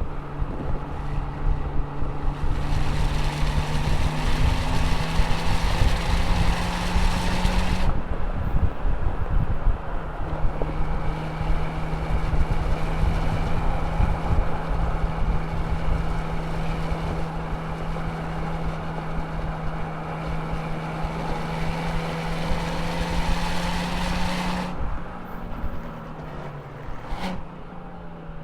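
Muscle car engine running hard at a steady pitch over heavy road and wind noise. The note breaks off briefly about eight seconds in and picks up again, then drops in pitch over the last few seconds as the car slows.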